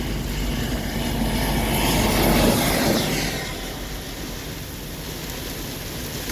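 Strong straight-line thunderstorm wind gusting around 40 mph, a rush of noise that builds to a peak about two and a half seconds in and then eases off.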